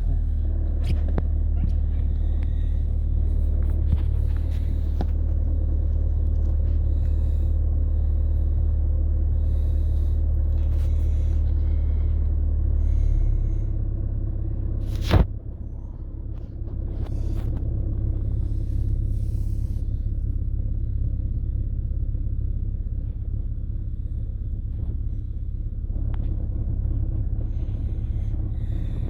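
Skoda Octavia's 1.6 TDI four-cylinder diesel idling just after a cold start at about −1.5 °C, a steady low rumble heard from inside the cabin. The rumble eases a little about thirteen seconds in, and a single sharp click comes about fifteen seconds in.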